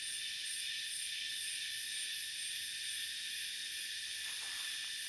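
Steady chorus of insects in forest, several high buzzing tones at once, the highest pulsing about twice a second.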